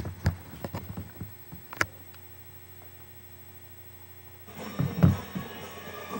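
Steady electrical mains hum with a few sharp clicks in the first two seconds. About four and a half seconds in, a louder soundtrack cuts in, with a heavy thump soon after.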